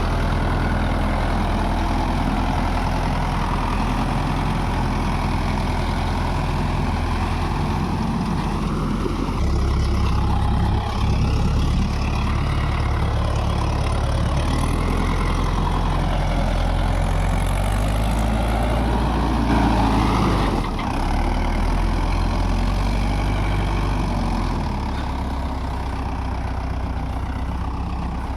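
Mahindra Yuvo Tech Plus 585 DI tractor's diesel engine running steadily, its note shifting in strength a few times, about ten, twenty-one and twenty-five seconds in.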